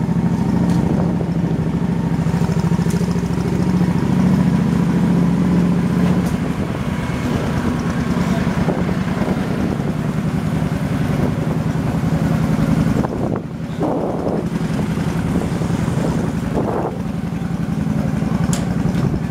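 Motorbike engine running on the move, with wind buffeting the microphone. The engine note eases about six seconds in and dips briefly around thirteen seconds.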